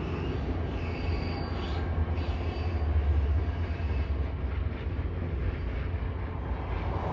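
Rocky Mountaineer passenger train rolling past, a steady low rumble of wheels on rail.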